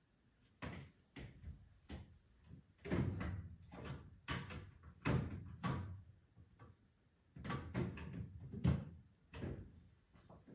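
An irregular series of knocks and clatters, like household things being handled and set down, about a dozen in all.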